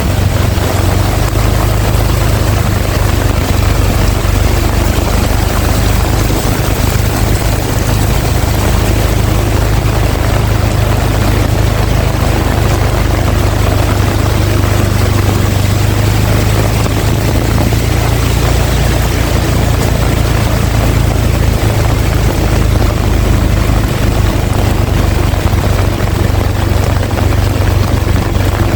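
Heavy rain pouring down in strong wind: a loud, even hiss of rain over a steady low rumble.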